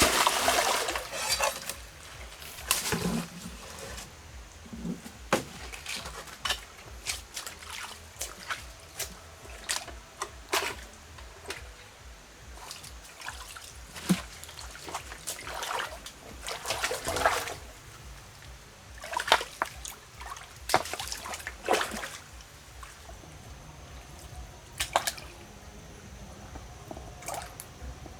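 Water splashing and dribbling in irregular spurts: a strong splash at the start, then scattered smaller splashes and drips.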